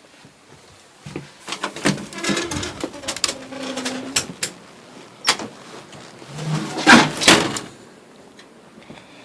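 A door being opened and shut, a run of knocks, clicks and scrapes with a short creak in the middle, loudest near the end.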